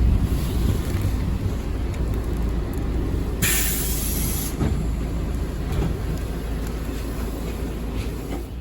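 Bus interior: the engine's steady low rumble, with a burst of compressed-air hiss lasting about a second, some three and a half seconds in, from the bus's air system.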